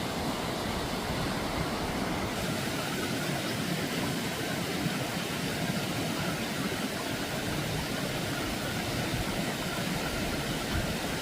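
Steady rushing noise of flowing stream water, even throughout with no distinct events; its tone changes slightly about two seconds in.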